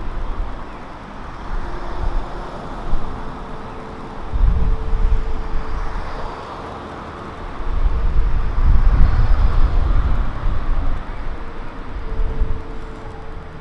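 City street traffic: vehicles passing by, with two spells of heavy low rumble, one about four seconds in and a longer one from about eight to ten seconds, over a steady street hum.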